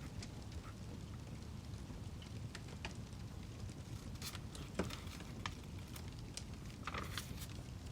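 Burning firewood crackling: a steady low rumble with scattered sharp pops at irregular intervals, the loudest nearly five seconds in and a small cluster around seven seconds.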